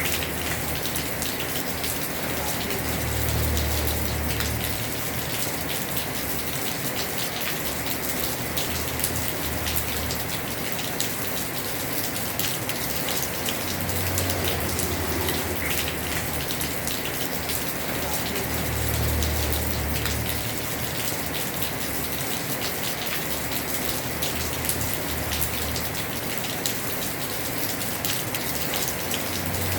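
Heavy rain falling on a house roof: a dense, steady patter of drops, with a low rumble that swells and fades every few seconds.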